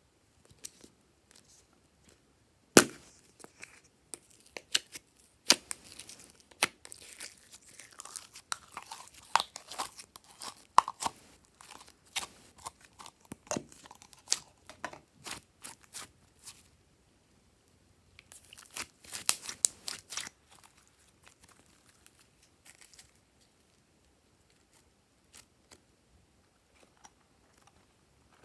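Slime being worked by hand with things mixed in, giving irregular crackly pops and wet clicks. They come thickly through the first half and in a dense burst about two-thirds of the way through, then only a few scattered pops.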